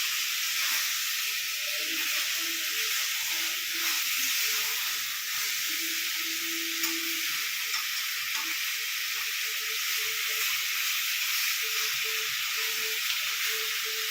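Chicken frying in mustard oil in a pan with a steady sizzle, at the kosha stage where it is cooked down until the oil separates.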